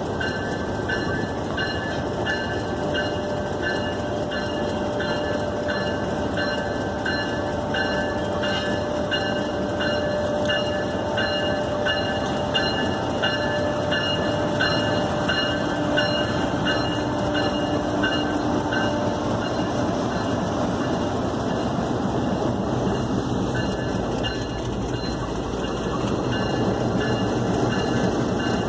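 Pakistan Railways GEU-40 diesel-electric locomotive running steadily, with a regular clicking about twice a second that fades out about two-thirds of the way through.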